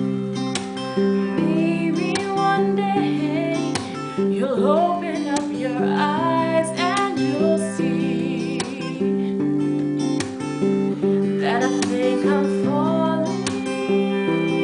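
Acoustic guitar strummed in steady chords, with a voice singing gliding, wavering melodic runs over it in places.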